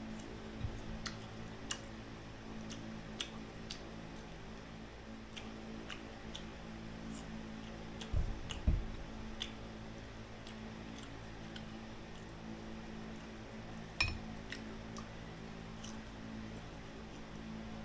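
Close-up chewing of crisp green mango slices, a scatter of short crunchy clicks, over a steady low hum. A few louder knocks come around the middle and again a few seconds later.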